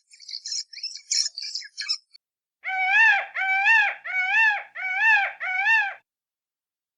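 High, rapid bird chirping for about two seconds, then five evenly spaced, rising-and-falling calls from an animal.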